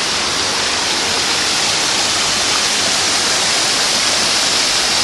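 Forest river running: a steady, even rush of flowing water.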